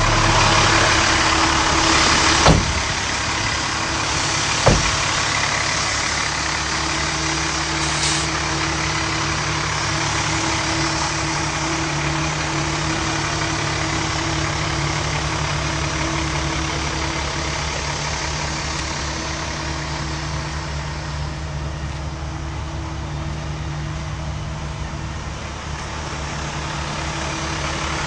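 International 7500's MaxxForce 10 turbo diesel idling steadily, with two sharp knocks in the first five seconds.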